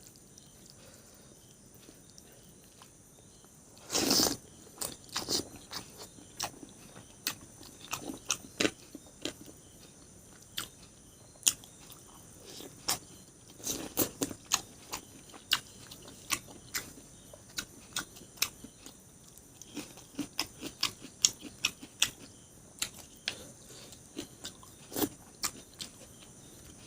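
Close-miked eating sounds: chewing and wet mouth clicks, irregular and sharp, with a louder noisy burst about four seconds in.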